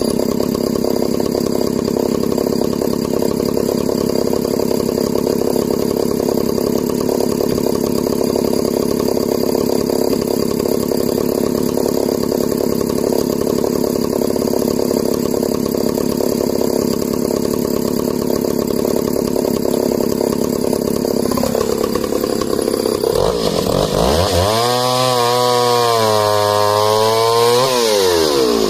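Echo CS-602VL two-stroke chainsaw running at a steady pitch under load for about twenty seconds, as in a long cut through wood. Near the end it is revved up and down freely several times.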